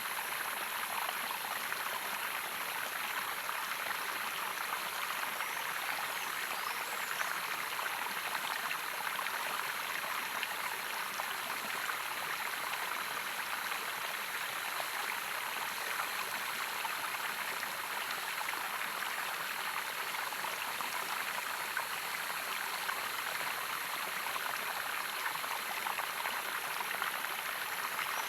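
Running water flowing steadily: an even, unbroken rushing hiss.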